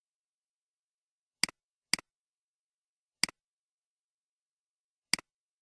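Computer mouse clicking four times, each click a sharp press followed closely by a softer release, against otherwise dead silence.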